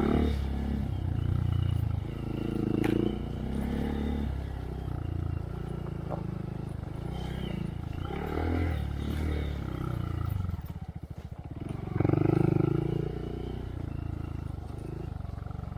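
Honda Monkey's 125 cc single-cylinder four-stroke engine through a Yoshimura RS3 exhaust, revving up and backing off repeatedly as the bike picks its way along a trail. About eleven seconds in it drops briefly to a slow, throbbing low-rev beat before opening up again.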